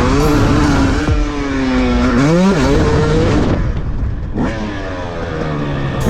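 Dirt bike engine revving up and down as it is ridden around a track: the pitch climbs and drops several times with the throttle. The throttle eases off briefly a little past the middle before the engine revs up again.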